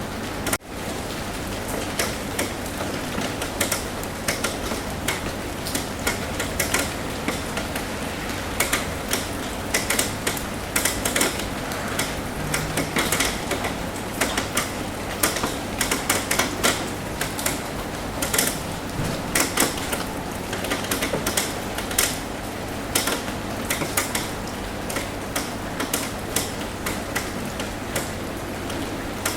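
Rain tapping on a roof: a steady patter with many irregular, sharp drop ticks. There is a brief dropout about half a second in.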